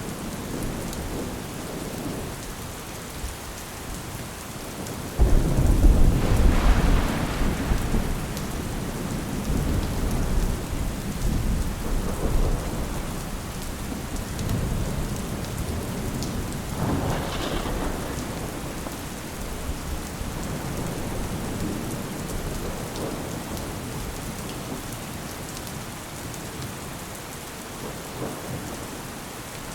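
Steady rain with thunder: a sudden loud thunderclap about five seconds in that rumbles on for several seconds, then a second, softer roll of thunder about halfway through.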